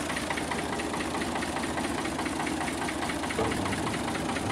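Tractor diesel engine running steadily at low revs with a rapid, even knocking beat.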